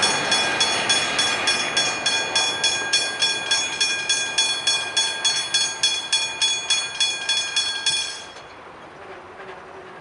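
Level-crossing warning bell, a Westinghouse hybrid bell, striking steadily about three times a second. It cuts off about eight seconds in as the crossing stops its warning.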